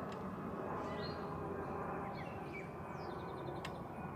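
Wild songbirds chirping: a handful of short, high chirps and a quick trill near the end, over a steady low outdoor background hum.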